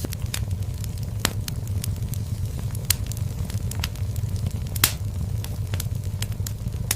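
Fire burning in a fireplace, crackling with irregular sharp pops over a low steady rumble; the loudest pop comes a little under five seconds in.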